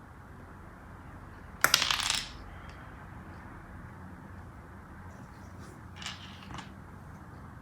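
A brief clatter of small LEGO pieces about one and a half seconds in, then two light clicks near the end.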